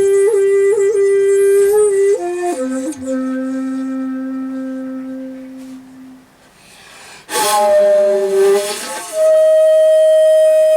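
Shakuhachi bamboo flute playing slowly: a long held note with small flicked ornaments, dropping to a lower note that fades away. After a short pause comes a breathy, forceful attack, then a rise to a higher, loud held note.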